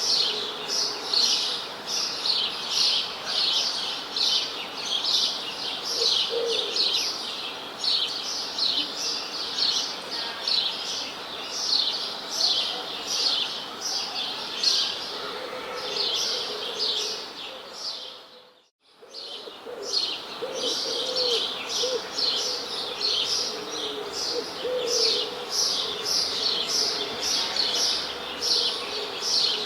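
Many small birds chirping continuously in a dense, rapid chorus of high chirps, with a few lower calls underneath. About two-thirds of the way through, the sound fades out briefly and comes back in.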